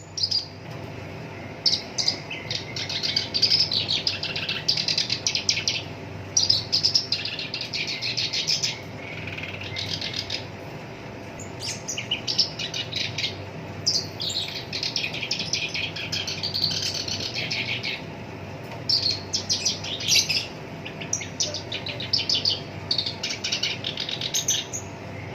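Black-browed reed warbler singing a harsh, chattering song: fast runs of quickly repeated notes in phrases of one to several seconds, with short pauses between.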